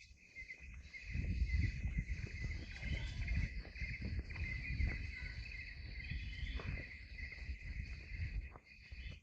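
Steady high-pitched chirring of insects, with an uneven low rumble that starts about a second in and is the loudest sound.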